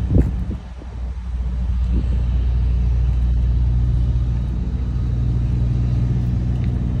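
Semi-truck diesel engine idling with a steady low hum. There is a single knock just after the start.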